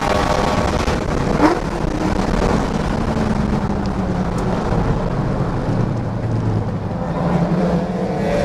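The supercharged 4.6-litre V8 of a 2004 Mustang SVT Cobra running on track, with road noise. There is a short rising whine about one and a half seconds in. The engine note drops about halfway through and climbs again near the end.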